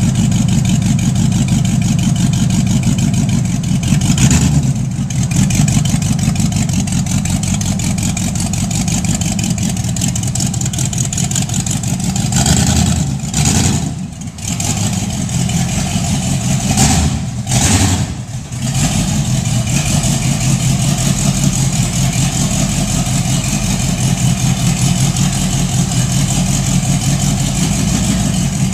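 1934 Plymouth's flathead six-cylinder engine running on open headers with no exhaust system fitted, a loud steady idle. The throttle is blipped briefly about 4 seconds in, again around 13 seconds and twice near 17–18 seconds, each rise dropping straight back to idle.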